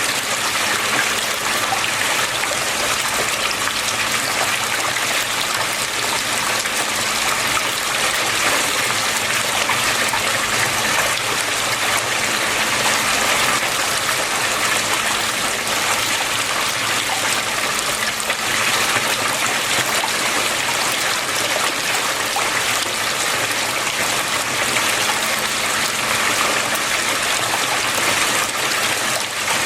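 Water flowing and splashing steadily, an even rushing sound with no breaks, with a faint low hum under it.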